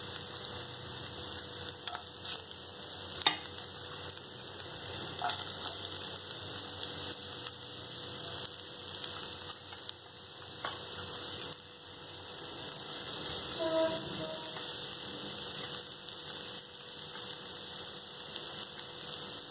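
Hot oil sizzling in a nonstick frying pan as crushed ginger-garlic paste and freshly added chopped onions fry: a steady hiss with a few light clicks.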